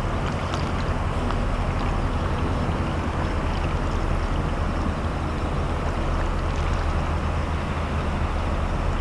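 Steady low drone of a ship's diesel engines running, with an even rushing noise over it.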